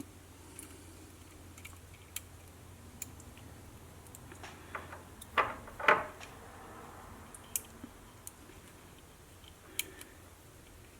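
Light clicks and taps of small tools and plastic parts as the tape mechanism of a Sony WM-B18 Walkman is handled during reassembly. Two louder clicks come a little past halfway, over a faint steady hum.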